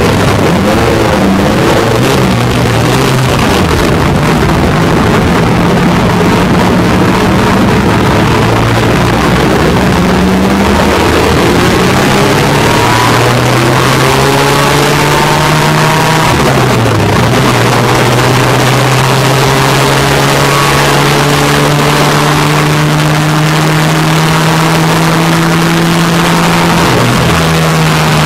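MGA race car's four-cylinder engine, heard from inside the open cockpit, pulling through the gears with the revs rising and falling in the first half. The revs drop sharply once about two-thirds of the way in, then hold steady at speed until another change near the end.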